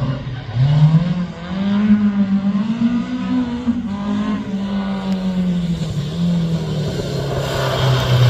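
Rally car engine revving hard: a gear change just after the start, then climbing and holding high revs before the pitch falls away slowly over the last few seconds as it eases off.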